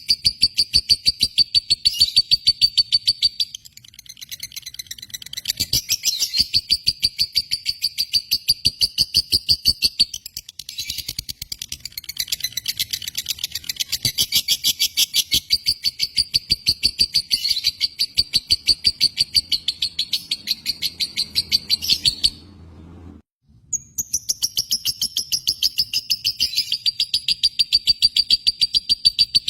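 Lovebird singing a long, fast, unbroken chatter of high chirps, several a second. It breaks off for about a second roughly three-quarters of the way through, then starts again.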